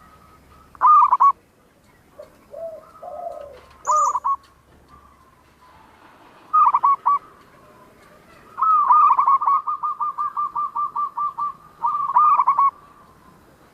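Zebra dove (perkutut) cooing in its staccato song. Short bursts of quick notes come a few seconds apart, then a long run of rapid, even coos at about four a second, followed by one more short burst.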